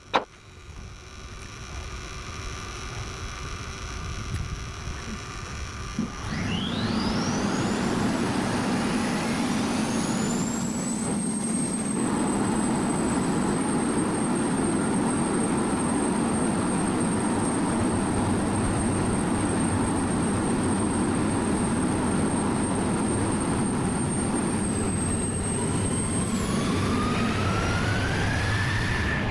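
F-16 fighter jet engine starting up: a whine rises steeply in pitch about six seconds in and settles into a high, steady whine over a steady rumble. A second, lower whine climbs near the end as the engine spools up.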